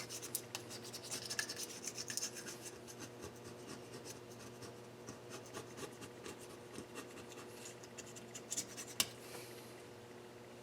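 Hand scraping and scrubbing, many quick strokes in a steady run, while cleaning a cylinder head, with one sharp click about nine seconds in. A faint steady hum sits underneath.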